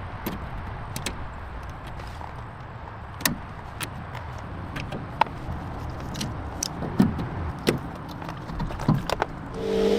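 Scattered clinks and knocks, as of tools on metal parts, over a low rumble. Shortly before the end a steady machine hum starts and holds a constant pitch.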